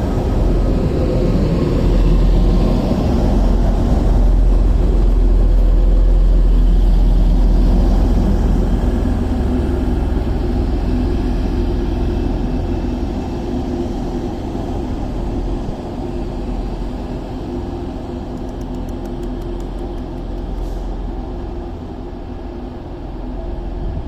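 Class 185 diesel multiple unit's engines running with a steady low rumble and hum, easing off gradually over the second half.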